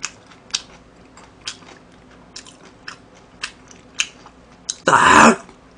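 Close-miked chewing and biting of food, with a few crisp crunches sounding as irregular sharp clicks several times a second. About five seconds in there is one loud, breathy mouth noise.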